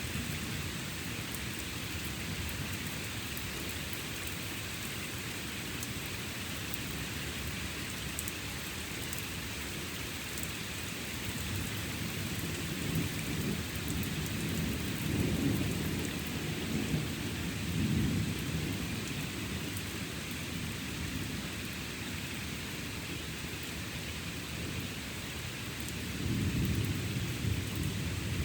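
Steady rain falling during a thunderstorm, with thunder rumbling in low rolling swells about midway and again near the end.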